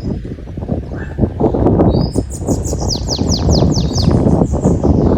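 Canary singing: runs of rapid, high, falling whistled notes, about five a second, with short high chirps between. Heavy wind rumble on the microphone lies under it.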